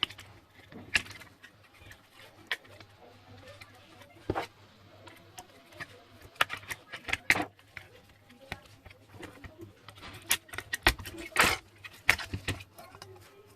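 Irregular sharp clicks and taps, some in quick clusters, as small tools and hard parts are handled on a work surface, over a faint steady low hum.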